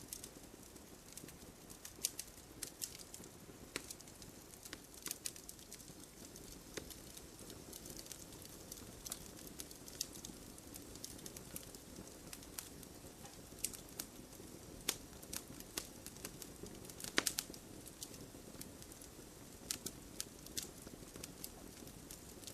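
Campfire of burning wood crackling: irregular sharp pops and snaps over a low steady hiss of flames, with one louder pop about seventeen seconds in.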